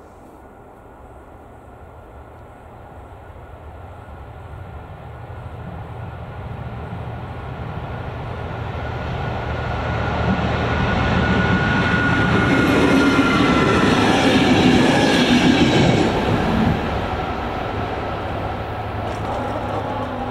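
A ČD class 854 diesel railcar with a trailer car approaches and passes over the level crossing. Its engine and wheels grow steadily louder, peak about 12 to 16 seconds in, then drop off suddenly as it goes by. A steady high warning tone from the crossing's electronic bell runs throughout.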